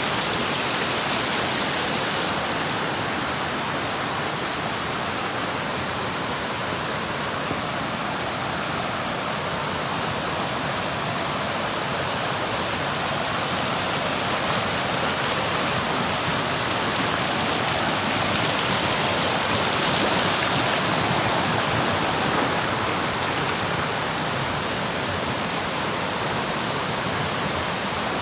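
Waterfall, a steady even rush of falling water that swells a little in the middle.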